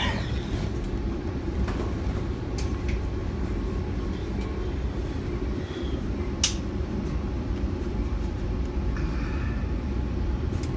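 Steady low rumble of a Metra commuter coach in motion, heard from inside the car, with a few sharp clicks and knocks. The loudest click comes about six and a half seconds in.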